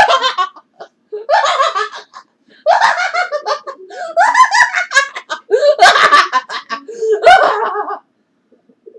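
Hearty laughter in a string of separate bouts, each lasting about a second, stopping about a second before the end.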